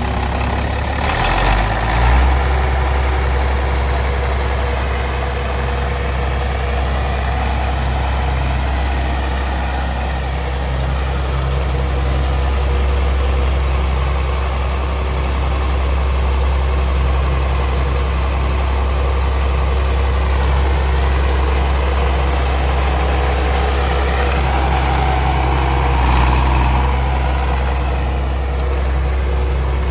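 1959 Farmall 560 tractor engine idling steadily, its note shifting with a brief swell about two seconds in and swelling again briefly near the end.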